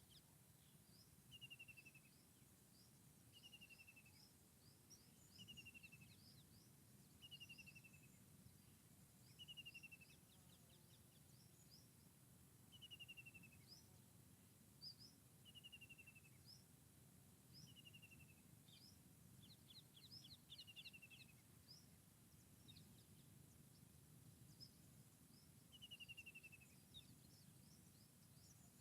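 Faint forest birdsong: one bird repeats a short falling whistled note about every two seconds while other birds chirp higher, with a quick run of notes about twenty seconds in. A faint low rumble lies underneath.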